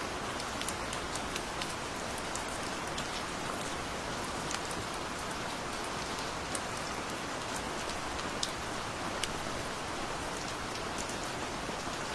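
Steady rain falling, an even wash with many individual drops ticking sharply on a hard surface.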